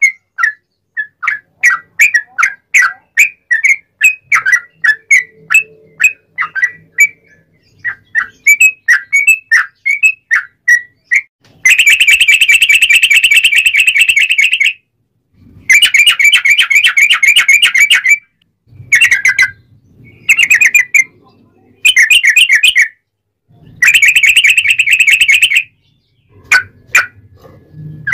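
Sooty-headed bulbul (trucuk) singing loudly: a run of quick, separate falling whistled notes, then, from a little before halfway, several fast rolling trills a few seconds long, broken by short gaps and brief bursts.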